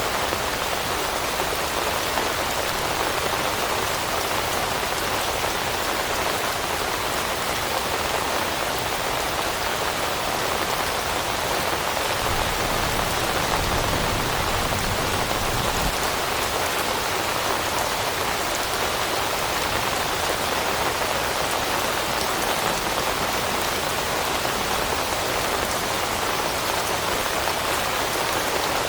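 Steady rain falling on leaves, a dense, even patter with no break or change in strength.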